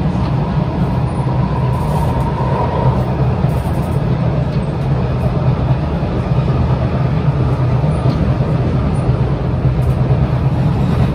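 Kawasaki C751B MRT train running along the track, heard from on board: a steady, loud rumble of wheels and running gear, with a faint high tone that fades out about three seconds in.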